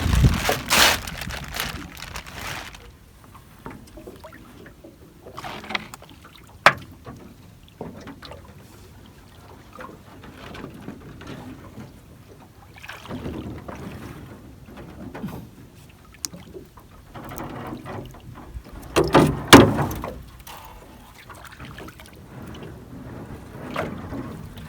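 Water sloshing and splashing in irregular bursts as a person wades into shallow water to a set fishing net. There is a louder splash about a second in and another near the end.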